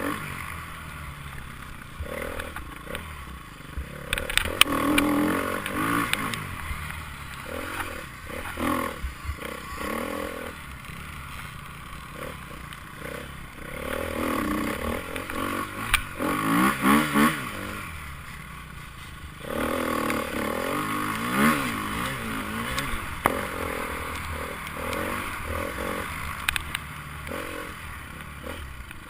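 Enduro motorcycle engines revving as the bikes ride past, their pitch rising and falling again and again.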